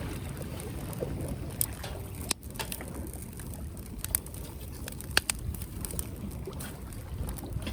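Wood fire burning in a Uniflame firewood grill, crackling with scattered sharp pops over a steady low rumble.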